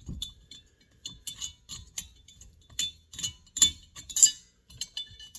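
Small metal tools and chainsaw parts clinking and tapping on a workbench: a run of irregular light clicks, a few with a short metallic ring.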